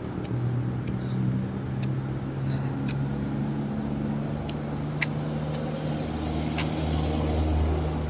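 A motor vehicle's engine humming steadily, swelling a little near the end, with a few faint high chirps and clicks.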